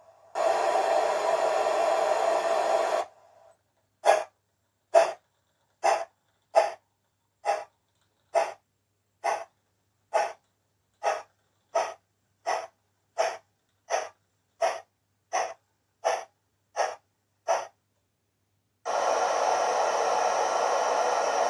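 MyLocoSound steam sound card playing through the Wisbech tram loco's small on-board speaker. A steady hiss of steam lasts about three seconds, then about eighteen evenly spaced exhaust chuffs come a little over one a second, growing gradually softer. The steam hiss starts again near the end.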